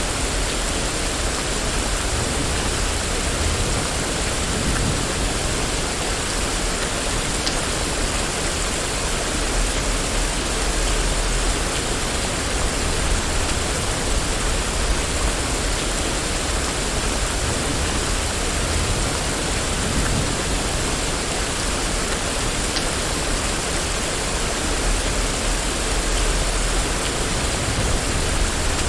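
Steady rain falling on a street, an even hiss with a low rumble beneath it.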